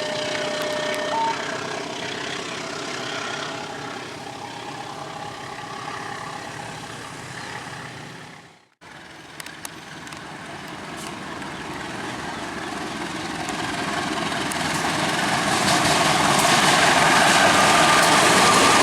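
Train noise: a steady rumble with a hum of engine tones fades over the first eight seconds, cuts out suddenly, then a train approaches and grows steadily louder to the end.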